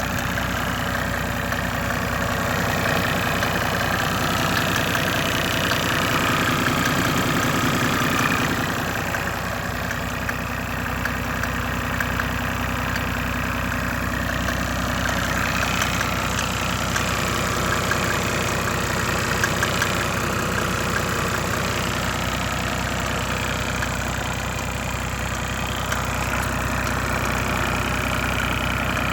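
Mercedes OM606 3.0-litre straight-six turbo diesel idling steadily with an even diesel clatter, shortly after a cold start in sub-zero weather.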